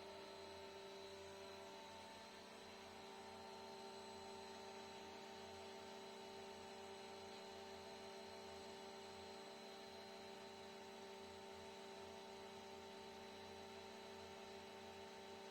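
Near silence: a faint steady electrical hum with a few constant tones, unchanging throughout.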